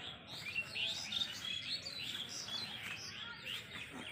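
Birds chirping: many short, quick calls overlapping one another, over a faint steady background hiss.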